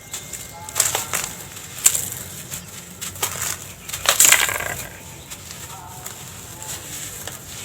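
Dry yellow dirt (sand-cement) chunks crumbling and crunching in several gritty bursts. The loudest burst comes about four seconds in, and the crumbling is fainter after that.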